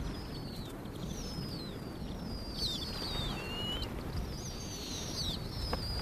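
Small birds calling: repeated thin, high chirps and whistles that slide down in pitch, several overlapping, over a low steady rumble of wind.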